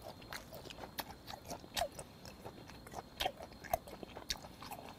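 Close-miked chewing of raw yellowtail sashimi: irregular soft clicks and smacks of the mouth, a few a second.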